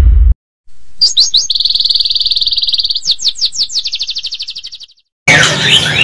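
A loud low rumble cuts off abruptly at the very start. After a short silence, a songbird sings: a few quick downward-sweeping chirps, a steady high trill, more downward chirps, then a fast trill that fades out.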